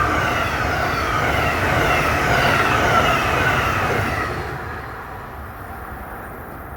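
Train passing and pulling away: rail noise with a high whine that slides down in pitch, fading out after about four and a half seconds.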